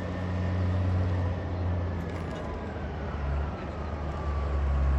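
Vintage tractor engine running steadily, its low hum swelling about a second in and again near the end. A thin whine slowly falls in pitch throughout.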